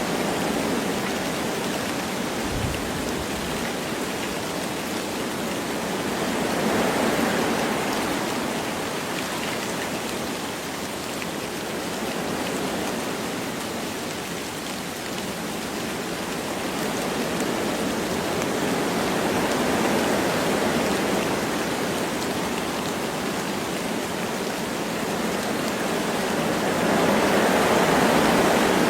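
Wind rushing through forest trees with light rain falling, a steady hiss that swells in slow gusts about three times.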